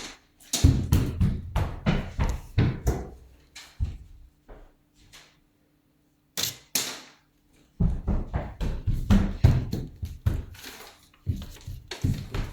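Rapid series of thumps and knocks in two runs with a pause between them, the knocks coming a few times a second.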